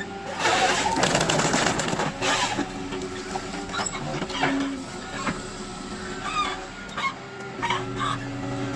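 Tree harvester running: a steady engine hum, with loud harsh bursts of noise in the first couple of seconds and short sharp mechanical sounds after.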